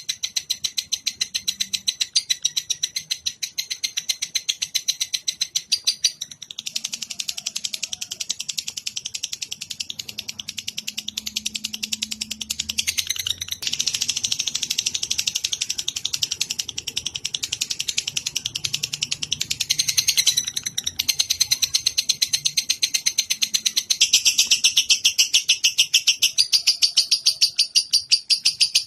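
Recorded songbird tutoring sound (masteran): a high, rapid chirping trill of evenly spaced pulses, about four a second. It runs without a break, and its pattern shifts every few seconds.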